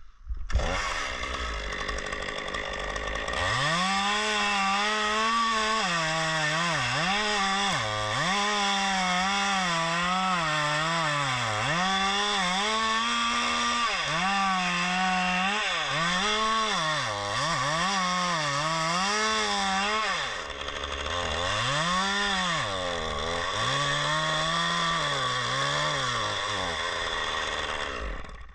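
Two-stroke chainsaw running at high speed, its engine pitch repeatedly dipping and recovering about once a second as the throttle works or the chain bites into the wood, with a longer drop about two-thirds of the way through. It stops shortly before the end.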